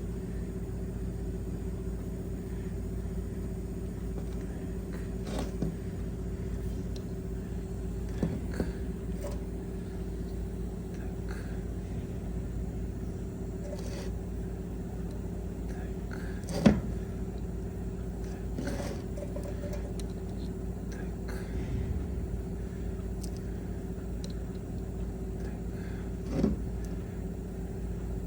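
Steady low machine hum with a few fixed tones, broken by scattered short knocks and clicks from hand work on a steering column. The loudest knock comes about two-thirds of the way through.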